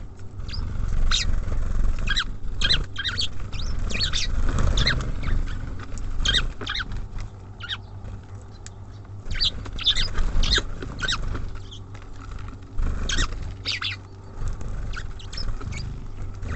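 Small songbirds at a feeder chirping in many short, high calls, with scratchy pattering from birds pecking and scrabbling on the feeder.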